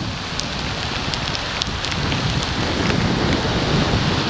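Heavy rain during a bicycle ride on a wet road: a steady hiss of rain and water, with scattered small ticks of drops striking close to the microphone.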